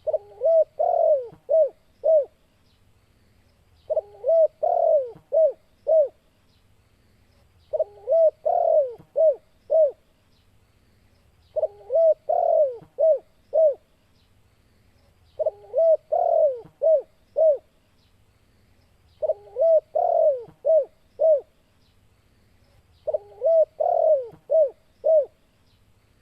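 Spotted dove (tekukur) cooing its song: a short run of low, rounded coos ending in three quick separate notes. The same phrase repeats seven times, about every four seconds.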